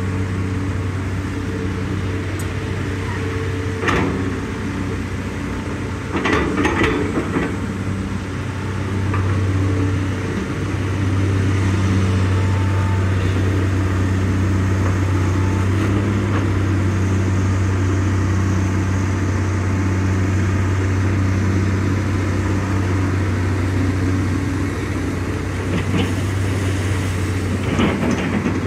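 Hitachi EX200-5 excavator's diesel engine running steadily while it digs, its hum growing louder about ten seconds in as it works harder. A few short knocks and clanks come through, a cluster around six to seven seconds in and a couple near the end.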